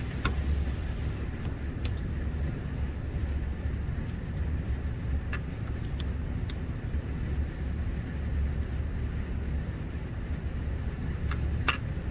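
Steady low background rumble with a few light clicks and taps scattered through it; no gunshots.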